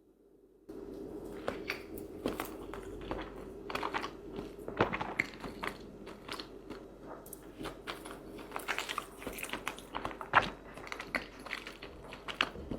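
Close-miked eating: repeated crisp bites and crunching with chewing, irregular and dense, over a low steady hum. It starts abruptly a little under a second in.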